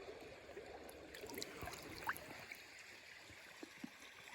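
Faint steady flow of a river, with a few short faint ticks and drips scattered through it.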